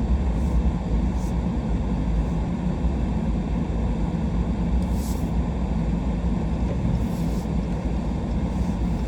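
Truck driving along: a steady low engine and road rumble, with a couple of brief higher hisses about five and seven seconds in.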